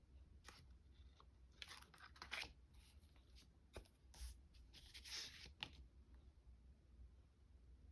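Faint, brief scratching and rustling of paper being handled and marked at a craft table, in a few short bursts.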